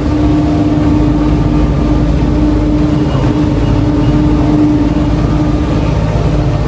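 Vehicle engine running steadily, with a constant low hum and a droning tone.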